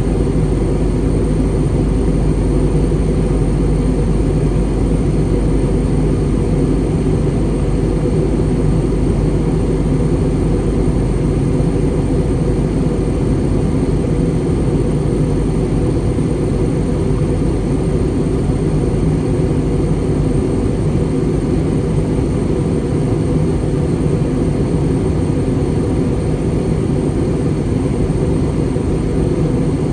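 Steady cabin noise inside an Airbus A320 in flight: a constant low rumble of airflow and engine hum, with a faint high whine over it.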